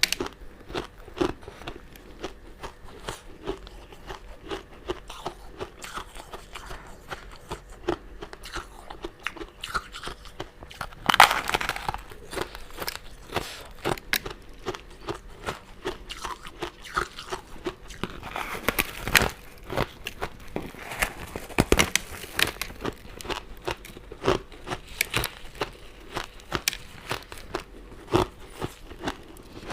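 Close-miked mouth sounds of eating crunchy sugar-crusted crystal candy and jelly: a run of crisp crunching clicks and chewing. There is a louder bite about eleven seconds in and more loud crunches around nineteen and twenty-two seconds.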